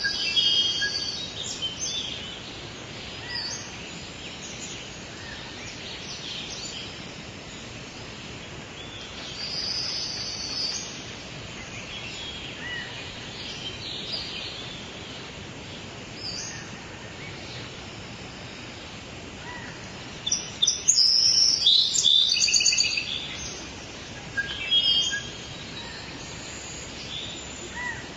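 Several songbirds chirping and singing over a steady background hiss, with a loud burst of rapid calls about three-quarters of the way through.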